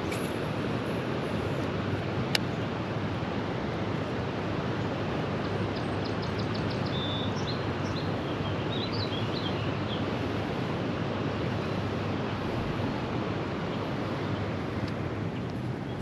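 Steady rushing of white water in a creek below a dam, an even, unbroken noise. A single sharp click comes a couple of seconds in, and brief high chirps come near the middle.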